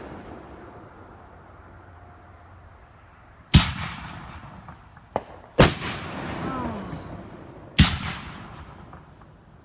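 Fireworks bursting overhead: three loud booms about two seconds apart, each with an echoing tail that dies away, and a smaller crack between the first two.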